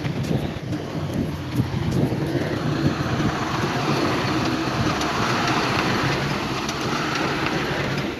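Heavy diesel earthmoving machinery running steadily, a dense rumble and grinding with scattered small clatters, as of stone being pushed.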